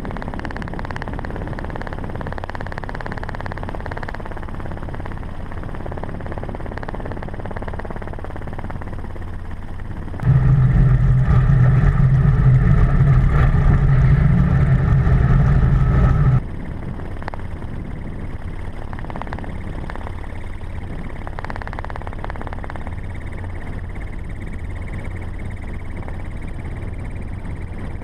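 Ford Raptor pickup truck driving fast off-road: steady engine and road noise. About ten seconds in, a much louder, deeper engine sound cuts in suddenly, lasts about six seconds, then cuts off just as suddenly.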